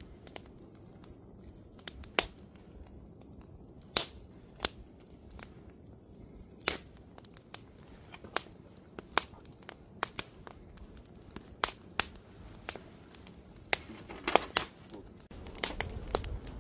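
Wood campfire crackling: sharp, irregular pops and snaps about once a second over a low steady hiss, with a quick flurry of pops near the end.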